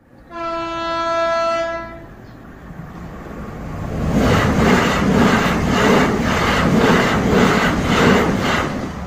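A passenger train sounds one steady horn note for about a second and a half, then passes close by, its wheels clattering over the rail joints about twice a second as the rumble builds and holds.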